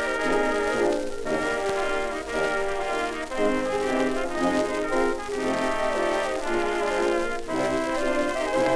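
Instrumental break of an early 1920s dance-orchestra recording, brass carrying the melody, played back from an old shellac record with surface hiss over the music.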